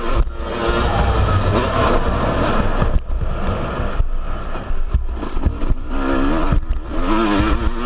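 Yamaha YZ250 two-stroke motocross engine under hard riding, its revs rising and falling over and over, with brief dips where the throttle is shut off a few times.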